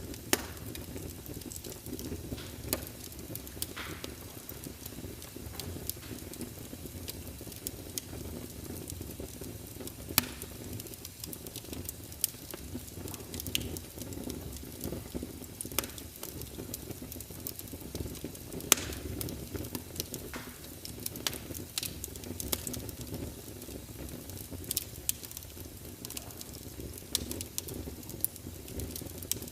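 Wood fire burning in a fireplace: a steady low rumble of the flames with irregular sharp crackles and pops of the burning logs, a few louder pops standing out.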